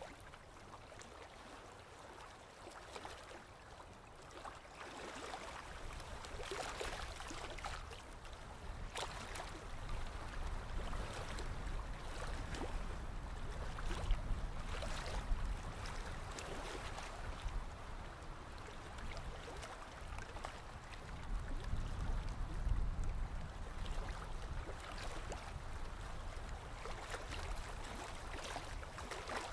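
Sea waves washing in: a rushing, splashing water sound that grows louder a few seconds in and swells with each wave, with a low rumble underneath.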